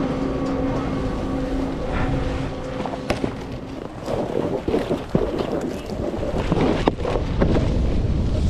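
A steady mechanical hum fades out in the first few seconds. From about halfway in, a snowboard scrapes and slides over snow, with wind buffeting the microphone.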